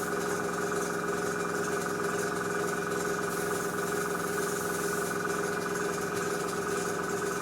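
Small airbrush compressor running with a steady hum, while the airbrush's hiss of air and thinned paint comes and goes on top.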